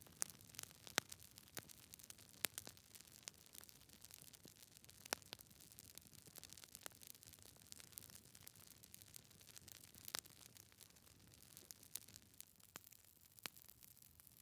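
Faint wood fire crackling in a fireplace: irregular sharp pops and snaps from burning logs, a few louder than the rest, over a low steady hiss.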